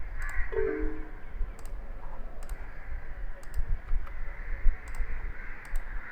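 Computer mouse clicks, a few sharp ones spaced irregularly, over a steady low rumble.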